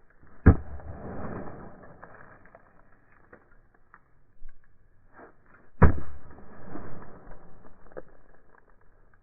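Two sharp knocks about five seconds apart, each followed by a second or two of rustling, with a few small ticks in between.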